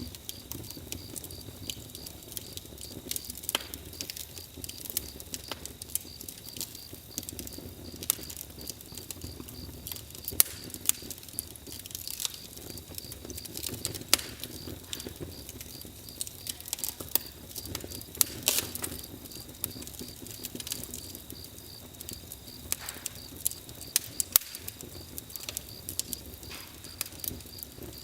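Campfire crackling: irregular sharp pops and snaps of burning wood over a low steady hiss, with a faint steady high tone throughout.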